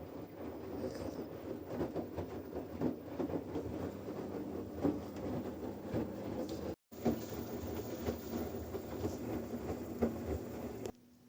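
Washing machine running through a wash: a steady rumble of the turning drum with many small irregular knocks and a faint hum. It drops out for a moment about seven seconds in and stops just before the end.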